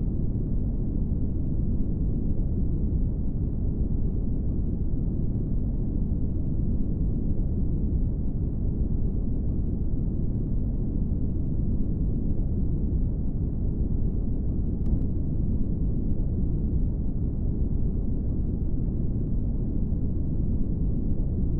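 Steady brown noise: a constant, deep rushing hiss weighted toward the low end, with no rhythm or change.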